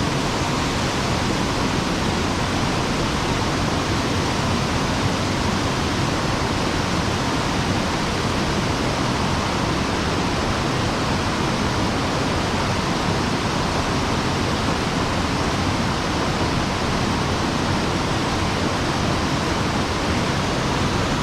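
Water spilling over a sabo erosion-control dam into a mountain stream: a loud, steady rushing that does not change.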